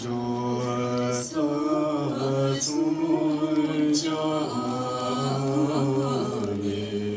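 Vocal music: a voice singing or chanting long held notes that change pitch every second or two.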